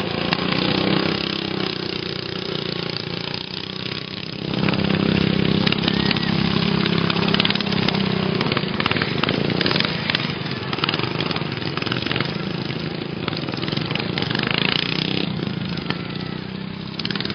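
Racing lawn mower engines running steadily, growing louder about four and a half seconds in.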